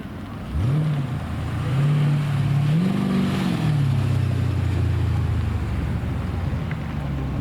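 Car engine revved: a quick blip about half a second in, then a longer rev that climbs and falls back, settling into a steady lower running note.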